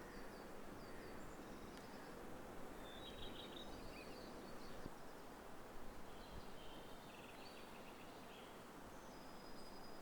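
Spring woodland ambience: a faint, steady low rushing background with small songbirds calling at intervals, high short chirps in quick series, a cluster about three seconds in, more around six to seven seconds, and a thin held whistle near the end.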